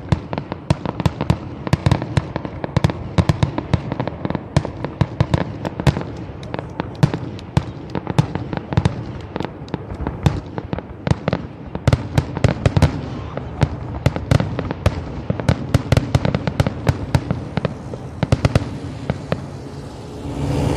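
Professional aerial fireworks display going off in a dense barrage, with many sharp bangs and cracks a second overlapping one another.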